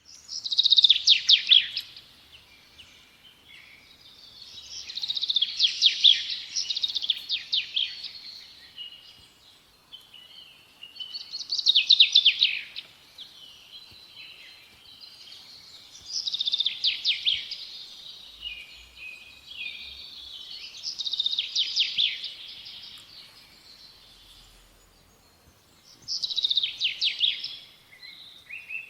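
A small songbird singing: about six phrases of fast trills and chirps, each lasting about two seconds, repeated every five seconds or so with short pauses between.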